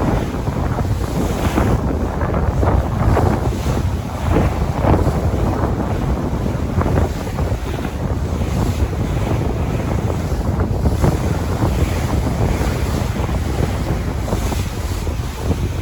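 Sea waves washing and splashing, with wind buffeting the microphone as a steady low rumble.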